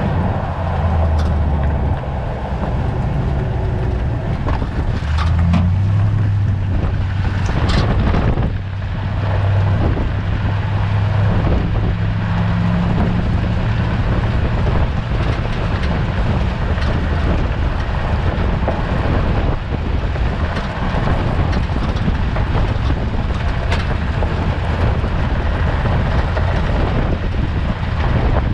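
2017 Toyota Tundra on the move: a steady low run of engine and road noise under a constant clatter of short rattles, with a few louder knocks. The rattle comes from the rear end, which the owner suspects is the parking brake shoes rattling around inside.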